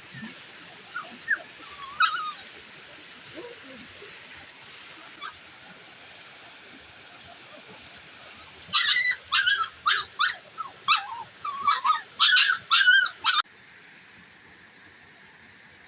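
Puppy whimpering and yelping in high, sliding whines: a few cries in the first couple of seconds, then a quick run of about a dozen from about nine seconds in that stops suddenly. A steady hiss sits underneath.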